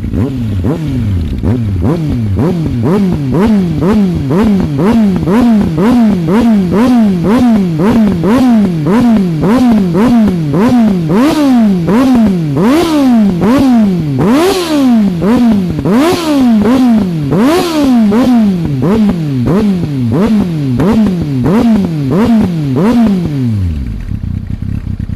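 Kawasaki ZX-9R inline-four engine through a Micron Delta aftermarket exhaust, revved in quick throttle blips about once a second, each rev snapping up and falling back. Sharp pops crackle from the exhaust as the revs drop, the spitting the title refers to, and near the end the engine settles back to idle.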